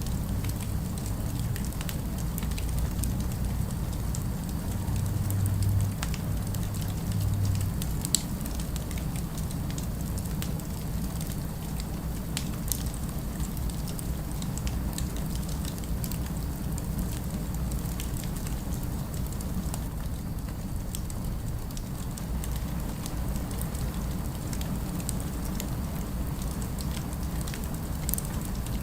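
Fire crackling, with scattered small sharp pops, over a steady low rumble of city ambience.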